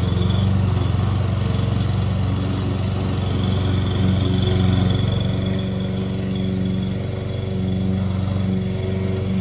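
Petrol lawn mower engine running steadily at a constant speed.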